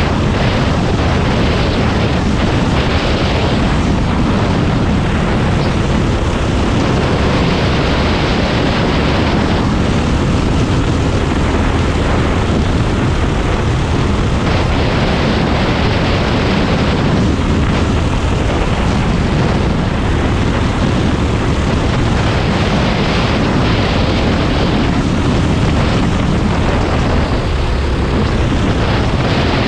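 Racing kart's Predator 390 single-cylinder four-stroke engine running hard under racing load, loud and unbroken, with a dense rumble.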